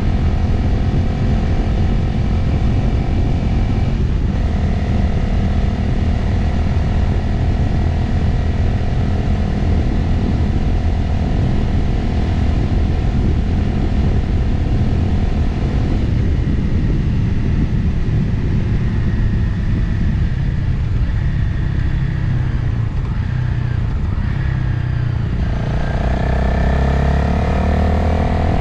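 Motorcycle engine running at a steady cruise, with wind rushing over the microphone. The engine note eases about halfway through, then rises again near the end as the bike accelerates.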